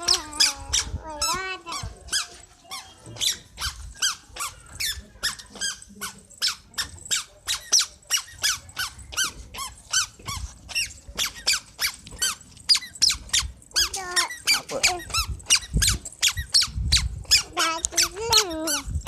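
A toddler's squeaky shoes squeaking with each step, short high squeaks at a quick even pace of about three a second.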